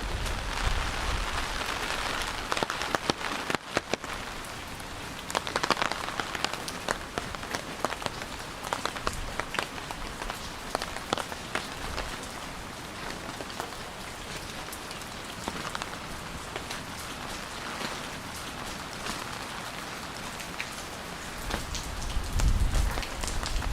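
Steady rain falling, with many separate drops ticking sharply on a near surface. A low rumble rises near the end.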